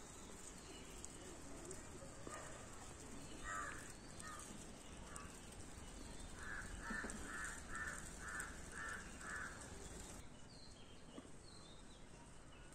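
A bird calling: a few separate harsh calls, then a quick, even run of about eight calls, roughly two or three a second.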